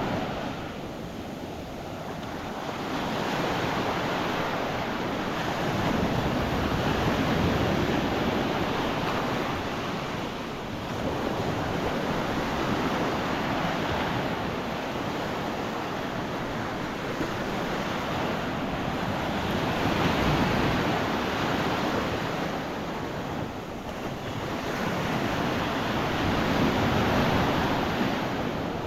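Gulf of Mexico surf: small waves breaking and washing up a sandy beach, swelling and ebbing every several seconds, with some wind on the microphone.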